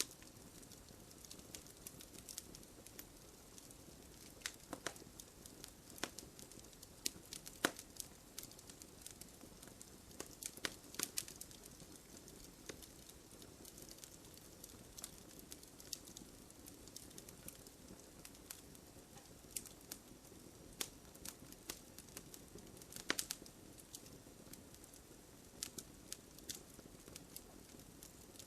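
Wood campfire burning: a soft steady hiss with irregular sharp crackles and pops, a few louder snaps among them.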